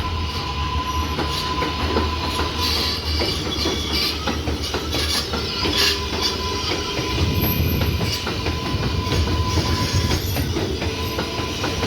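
R188 subway train running on the 7 line, its steel wheels clicking over rail joints above a continuous rumble and a steady high tone.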